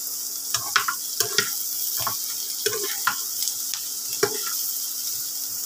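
Small whole potatoes sizzling in oil in a nonstick frying pan, with a metal spatula clicking and scraping against the pan about eight times as they are stirred. A faint steady low hum runs underneath.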